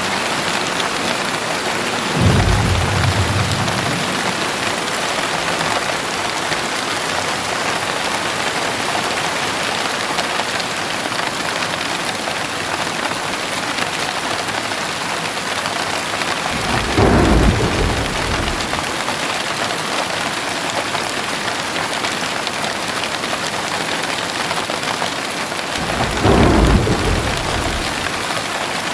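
Heavy rain falling steadily with a constant hiss, with three short low rolls of thunder: one about two seconds in, one in the middle and one near the end.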